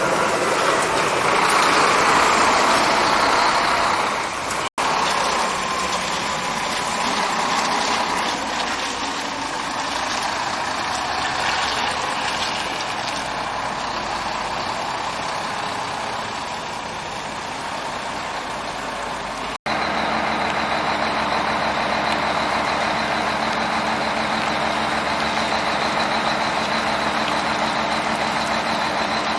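Scania K420iB double-decker coach's diesel engine running in three spliced takes, with a whine sliding slowly down in pitch in the first. The sound drops out for an instant at each splice.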